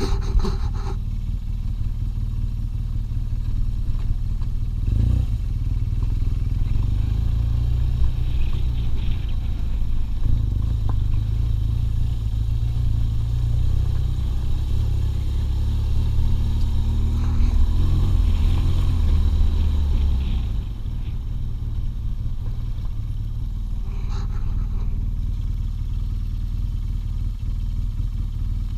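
BMW R 1200 GS flat-twin engine running under way. It picks up load and pitch a few seconds in, then eases back to a steadier, lower note about two-thirds of the way through.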